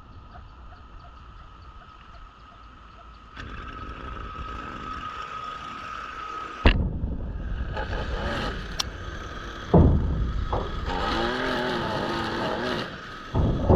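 Small gasoline-powered yard equipment running with a steady high whine. Its speed rises and falls, and the sound changes abruptly several times as different machines take over.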